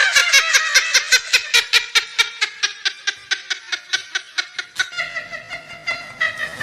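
A person laughing hard in a quick, even run of short 'ha-ha' pulses, about five a second, which slow and thin out about five seconds in.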